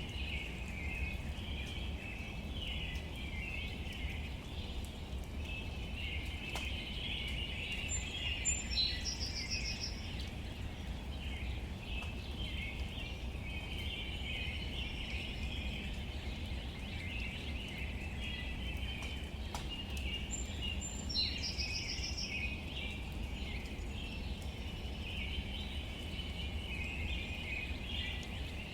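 Outdoor nature ambience: a steady chorus of birds and insects chirping over a low, even rumble. A distinct higher bird call comes twice, about 8 seconds in and again near 21 seconds, with faint scattered ticks throughout.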